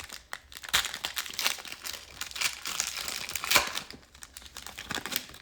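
Crinkling of a plastic trading-card pack wrapper and rustling of the cards being handled, in irregular crackles with the loudest about three and a half seconds in.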